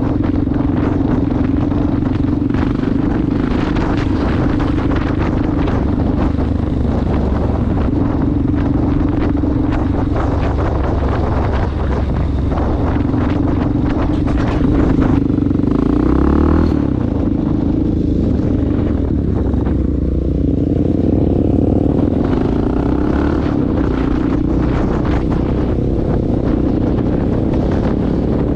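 Honda dirt bike's engine running steadily on the road, with wind rushing over the microphone. About halfway through the engine note dips and rises a couple of times, then climbs again as it revs.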